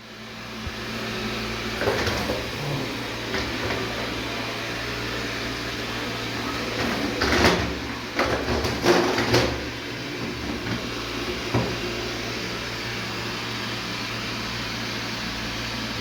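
Xiaomi Mijia Mop P robot vacuum running with a steady motor hum, with a few knocks and rattles and a busier cluster of them near the middle.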